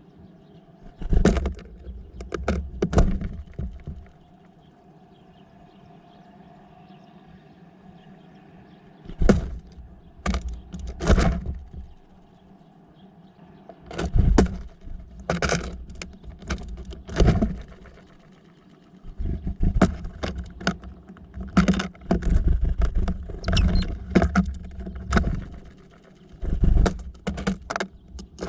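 Irregular clusters of sharp taps and knocks with dull low thumps beneath them, typical of small birds landing and pecking at a bird feeder close to the microphone.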